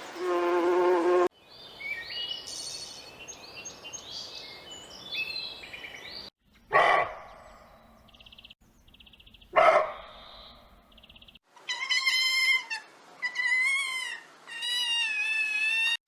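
A run of different animal calls, one after another with abrupt cuts. It goes from a steady pitched call, to high chirping, to two loud short calls, to brief buzzing, to a string of wavering high-pitched calls in the last few seconds.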